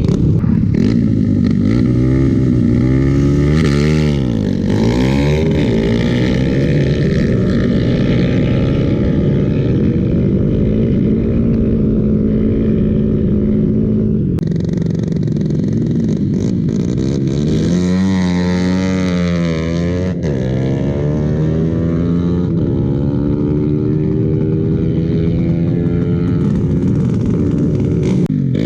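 Motorcycle engines running loud, holding a steady note and then swinging sharply down and up in pitch about four seconds in and again around eighteen to twenty seconds in, as they rev and pass.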